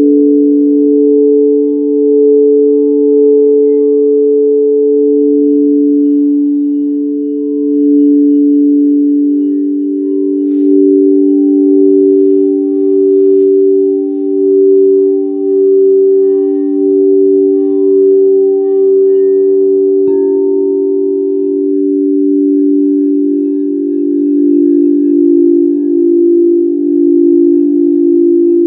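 Singing bowls ringing together in long sustained tones that waver and pulse as they sound against each other. About two-thirds of the way through, another bowl is struck and adds a higher tone.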